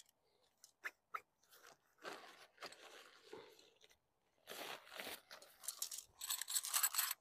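Tent parts being handled: two light clicks about a second in, then several bouts of rustling and crinkling of fabric or packaging, the loudest near the end.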